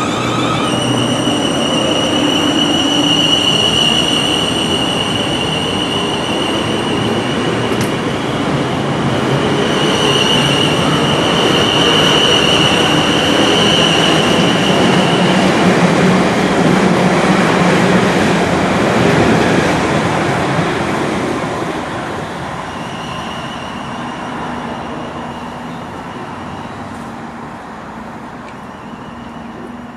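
A passenger train passing close by: a loud, dense rail rumble with a steady high whine. It swells to a peak in the middle and fades away over the last several seconds.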